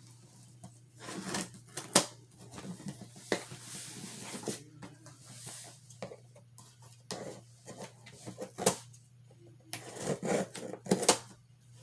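A package being handled and opened by hand: irregular rustling with sharp knocks and clicks, the loudest about 2 seconds in and twice near the end, over a faint steady low hum.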